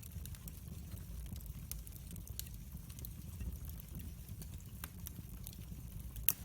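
Wood fire crackling and popping, with irregular sharp snaps over a steady low rumble of flame; one louder pop near the end.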